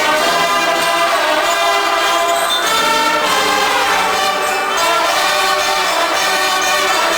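Marching band brass playing full chords, each held for about a second before changing.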